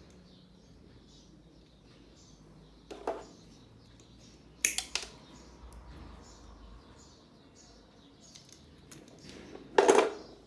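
Small birds chirping faintly in the background, broken by three brief clattering handling noises about three seconds, five seconds and ten seconds in, the last the loudest.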